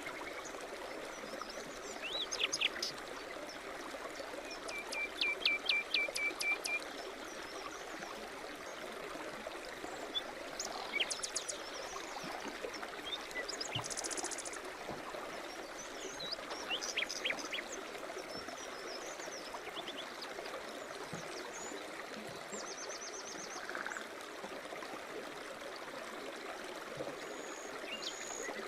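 A small stream running and trickling steadily, with songbirds singing and chirping over it in short phrases and trills every few seconds.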